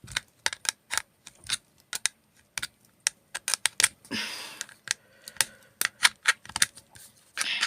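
A microwave component's casing, cut around its edges with snips, being pried open: a quick, irregular run of sharp clicks and snaps, with a longer scrape about four seconds in and another near the end.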